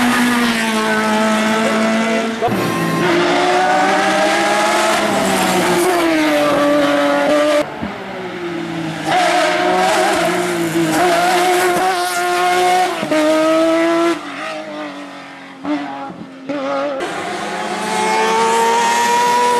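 Hill climb race car engines at full throttle, the engine note climbing and dropping again and again through gear changes, with tyre squeal. The sound breaks off abruptly a few times in the middle.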